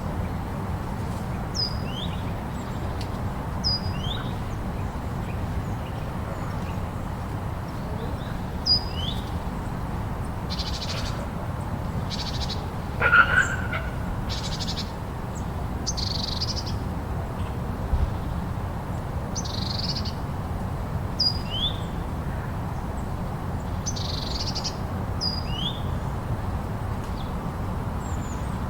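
Steady snowstorm wind with birds calling over it: repeated short, falling two-note chirps every few seconds, and one louder call about halfway through.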